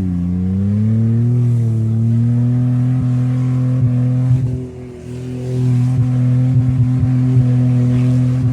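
Car engine running at high revs: the pitch dips and climbs back in the first second or two, then holds steady with sharp pops from about three seconds in, and the sound briefly falls away in the middle.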